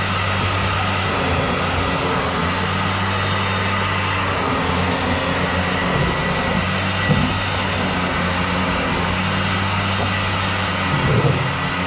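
A motor or engine running steadily with a low, even hum and a faint high whine, with brief louder moments about 7 s and 11 s in.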